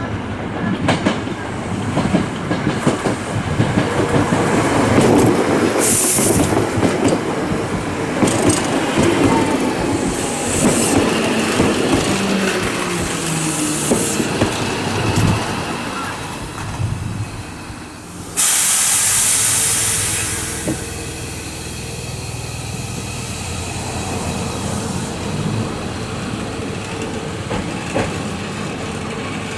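A Nose Electric Railway 7200 series electric train runs into the station with a heavy rumble, its motor tone falling in pitch as it slows. About eighteen seconds in there is a sudden loud hiss of air from the brakes as it comes to a stop. After that a steady hum runs on as the train stands.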